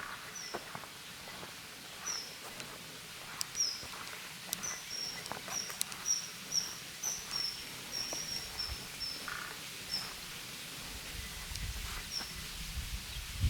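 A small songbird calling a quick run of short, high, slightly down-slurred notes, about two a second, with scattered light clicks underneath. A low rumble comes in near the end.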